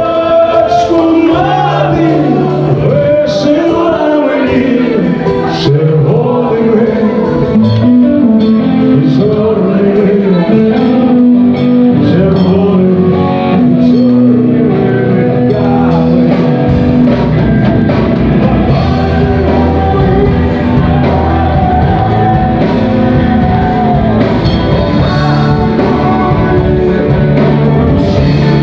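Rock band playing live with a singer, electric guitars, bass and drums; the bass and drums come in fuller about halfway through.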